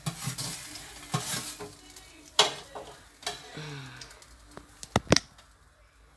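Utensil stirring and scraping in a pan of frying potatoes and chicken, with sizzling and a few sharp knocks against the pan, the loudest two in quick succession about five seconds in.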